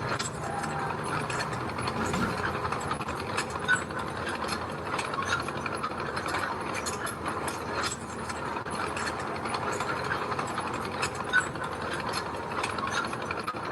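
Mini crawler bulldozer at work: its steel tracks clatter steadily over the engine's running, with two sharper clanks, one a few seconds in and one near the end.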